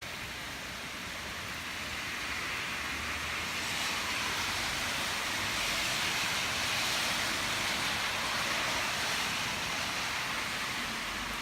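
Steady rain falling: a dense, even hiss that grows slightly louder over the first half.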